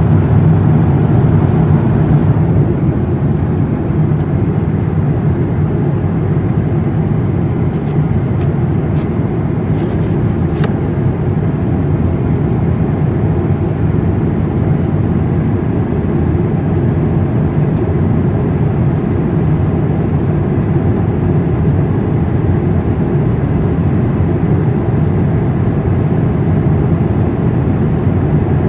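Steady low rumble of an Airbus A350 airliner. Its higher hiss drops away about two and a half seconds in, and a few faint clicks come around eight to eleven seconds.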